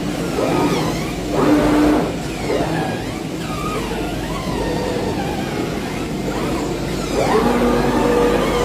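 CNC fabric cutting machine running, its drive motors whining in pitch glides that rise and fall as the cutting head moves, louder twice.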